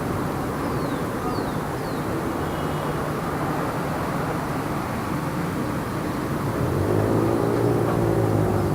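Light city traffic: a steady wash of car engine and tyre noise. Near the end, one vehicle's engine grows louder as it passes close by. A few faint, short high chirps come in the first couple of seconds.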